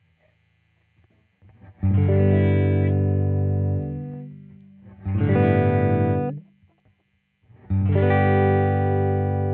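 1982 Vantage VE-550 electric guitar played direct through a DI box: three chords struck in turn. The first rings and fades, the second is cut off short, and the third is left ringing.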